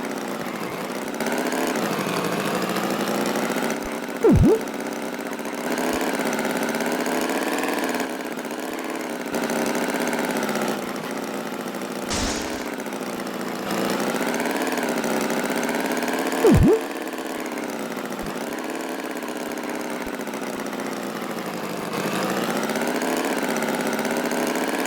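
Tractor engine running steadily, its pitch wavering slowly up and down. A short rising chirp cuts in twice, about four seconds in and again about sixteen seconds in.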